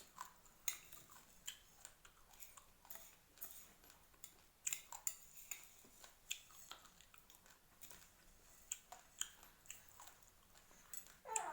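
Raw rice grains being chewed: a run of sharp, irregular crunches.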